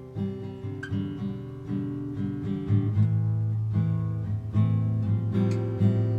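Acoustic guitar music, strummed chords played in a steady rhythm.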